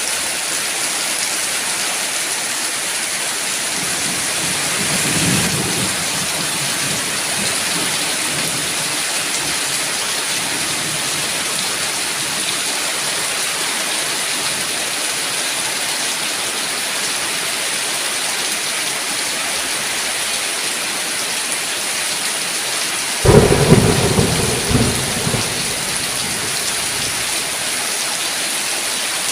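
Steady heavy rain with a low roll of thunder about five seconds in, then a sudden loud thunderclap about 23 seconds in that rumbles away over a couple of seconds.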